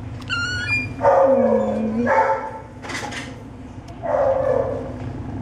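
Young kittens mewing in short, high squeaky cries, over a steady low purr.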